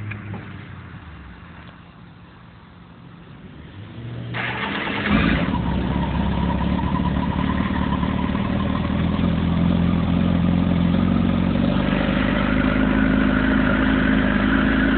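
Kawasaki ZX-10R inline-four engine cold-started: the starter cranks briefly about four seconds in, and the engine catches about a second later. It then runs at a steady cold idle.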